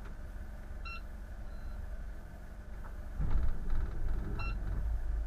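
Steady low engine rumble that grows louder about three seconds in, with two short electronic beeps, one about a second in and one near the end.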